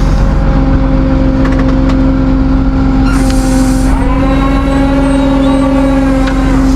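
Tow truck engine running steadily with a loud, even hum; a few light clicks and a short hiss partway through, and higher tones join about four seconds in.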